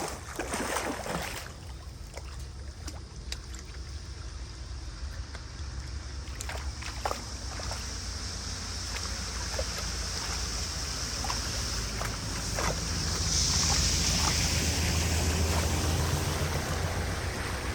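Water rushing and splashing over a low steady rumble, with a few scattered knocks; the rush grows louder about thirteen seconds in.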